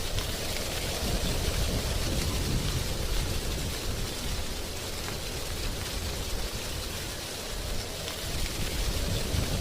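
Wind blowing through tree leaves: a continuous rustle with a low, gusting rumble that rises and falls.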